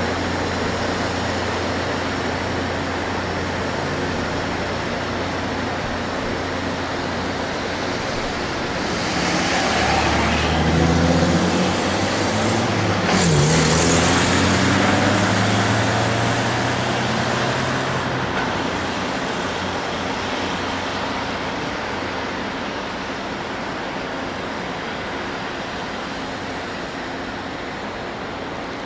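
Diesel locomotive engines running steadily, with a louder engine passing about ten to fourteen seconds in, its pitch dropping as it goes by, then fading.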